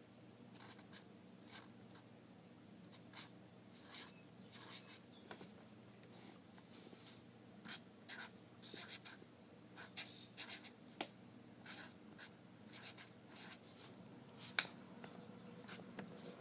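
Drawing on paper: quick, irregular scratchy strokes of a pen or pencil tip across the sheet, with a few sharper taps, over a faint steady low hum.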